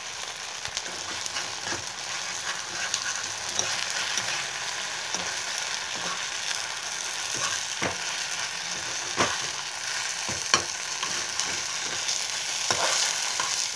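Okra coated in gram-flour batter sizzling steadily in hot oil in a kadai. A metal spatula clicks and scrapes against the pan now and then as the batter is folded over the pods, with the sharpest clicks a little past the middle.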